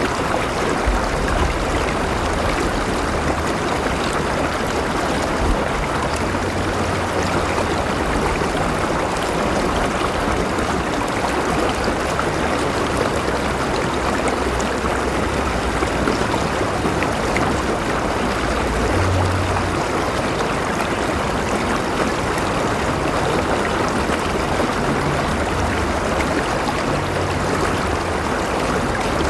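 River water flowing steadily over rocks: a continuous rushing of moving water with a low rumble underneath.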